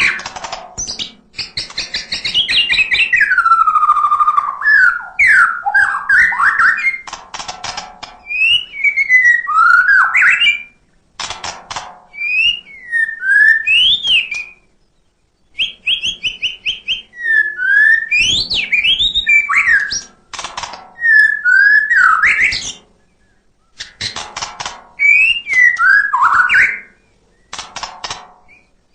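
White-rumped shama (murai batu) singing in loud, varied phrases of sweeping whistled notes mixed with rapid clicking trills, with short pauses between bouts.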